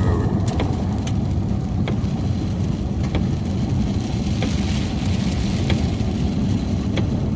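Road and engine noise inside a moving car's cabin: a steady low rumble, with scattered sharp ticks against the body every second or so.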